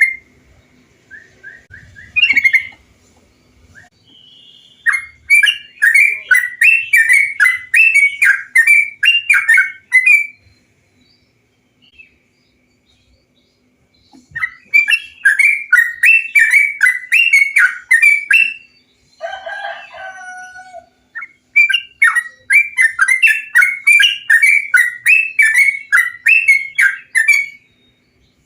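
Yellow-vented bulbul (trucukan) singing in three long bouts of quick, repeated chattering notes, with a short lower call between the second and third bouts.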